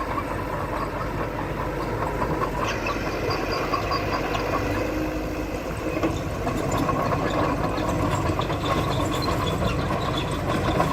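Diesel engine of heavy earthmoving machinery running steadily, with light metallic clanks and rattles from about three seconds in.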